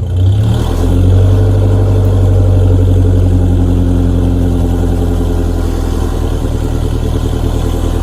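Truck engine running, its pitch rising in the first second as it revs up, then holding fairly steady.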